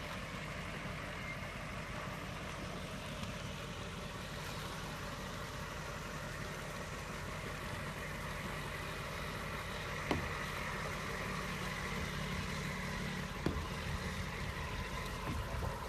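An engine idling steadily, with two brief clicks about ten and thirteen seconds in.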